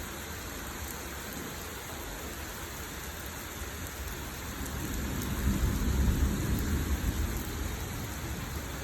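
Heavy rain pouring steadily, with a deep roll of thunder that builds about halfway through, peaks, and rumbles away.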